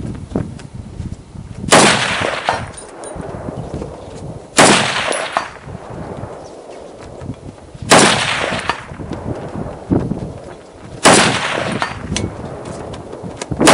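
Springfield M1A Squad Scout semi-automatic rifle in 7.62x51mm (.308), fitted with a muzzle brake, firing four single shots about three seconds apart, each sharp report trailing off in a short echo.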